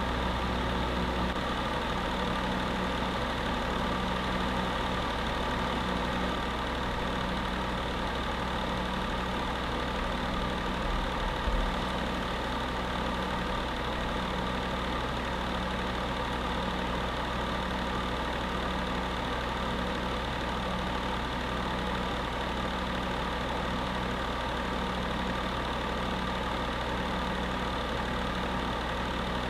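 Space heater running steadily: a continuous fan whir and electrical hum with several fixed tones and a faint regular pulsing in the low hum. A brief low bump about eleven seconds in.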